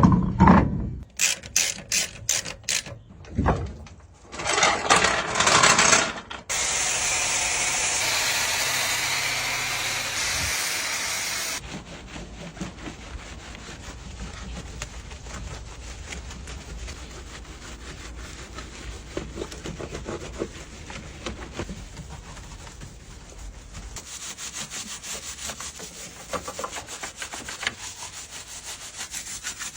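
Cleaning work on a flood-soiled car: a run of short bursts, then a steady spray-like hiss for about five seconds that cuts off sharply, then continuous scrubbing and rubbing for the rest.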